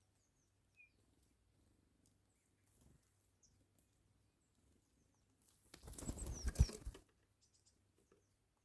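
A bird's wings flapping close by in a loud rush of about a second, midway through, among faint scattered bird chirps.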